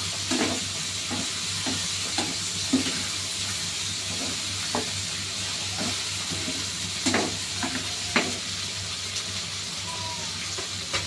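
Pork large intestine sizzling steadily as it fries in its thickening sauce in a coated frying pan, while a spoon stirs it, knocking and scraping against the pan every second or so at irregular intervals.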